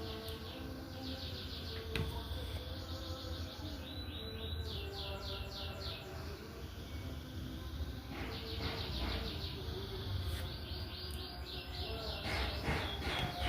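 Small birds chirping in repeated quick trills, one after another, over a steady low hum.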